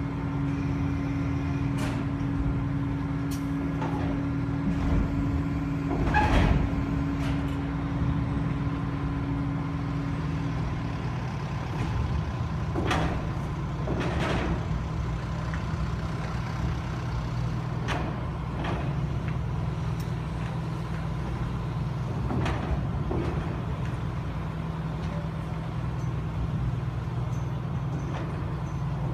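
Large diesel engines running with a steady low drone, a humming tone that drops out about a third of the way in, and scattered metallic clanks and knocks, the loudest about six seconds in.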